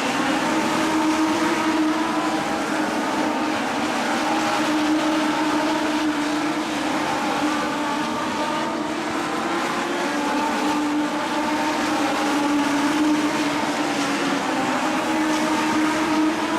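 A pack of motorcycle-engined Legends race cars running at high revs around an oval, several engines at once, their pitches sliding up and down as cars pass.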